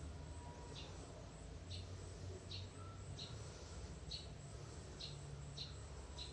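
A small bird chirping over and over, short high chirps about once or twice a second, faint over a low steady hum.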